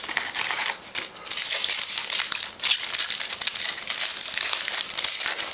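Foil wrapper of a trading-card pack crinkling as it is torn open and handled, a dense crackle that sets in about a second in.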